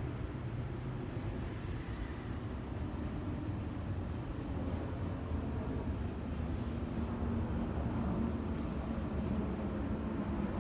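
Low, steady rumble of a Taiwan Railways train approaching the platform, growing gradually louder, with a faint hum joining in about two-thirds of the way through.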